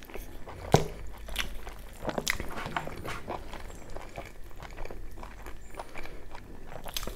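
A person eating mutton curry and puri close to the microphone: a steady run of short biting and chewing clicks and smacks, the loudest about three-quarters of a second in.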